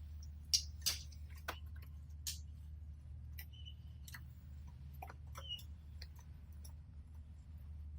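Pet canaries moving about the cage and nest: irregular small clicks and taps, with two short high chirps near the middle. A steady low hum runs underneath.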